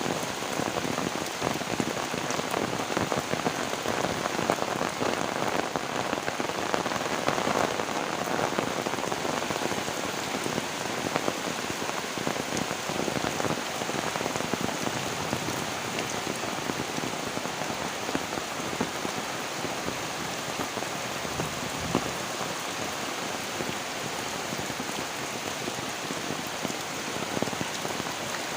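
Heavy rain falling steadily: an even, dense hiss of countless drops hitting surfaces, with no let-up.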